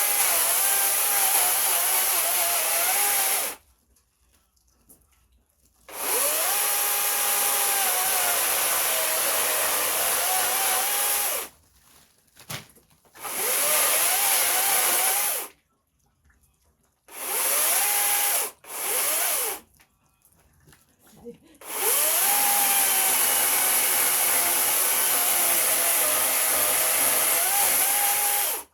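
Handheld electric power tool running in repeated runs of a few seconds each, with short stops between; its whine dips and rises in pitch within each run, the longest run near the end.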